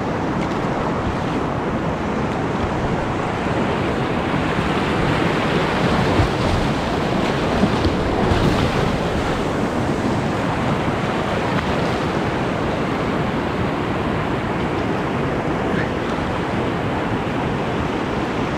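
Whitewater rushing steadily through a river rapid and its hole, a continuous even wash of water noise with no break.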